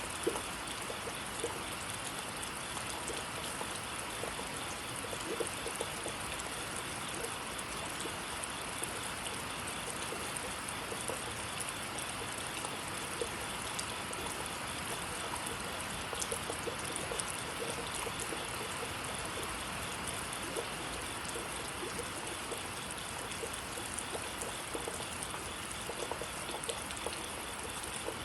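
Steady rain falling, an even hiss with scattered sharper drops.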